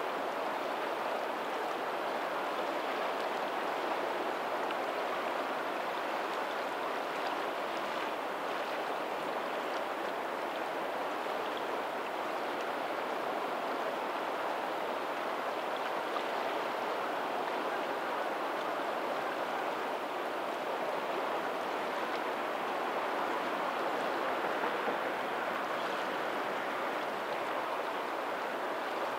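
Tidal lagoon water running out over a pebbly shore: a steady, even babble of flowing water.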